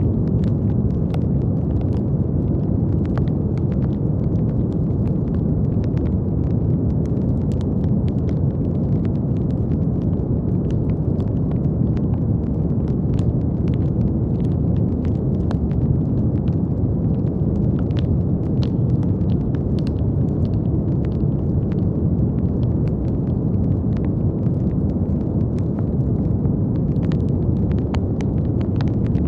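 Steady brown noise: an even, deep rumbling hiss weighted toward the low end, with faint, irregular clicks scattered through it.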